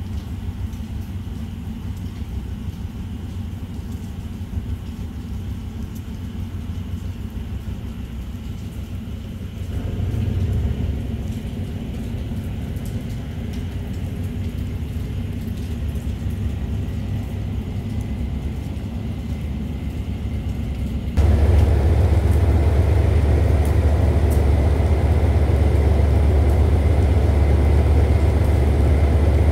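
Low rumble of a freight train of container wagons moving along the track. After a cut about two-thirds in, a diesel locomotive's engine runs with a louder, deep, steady drone.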